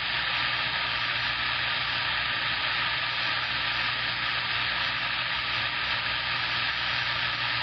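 CB radio receiver static: a steady, loud hiss from the radio's speaker with no voice in it, beginning to fade near the end.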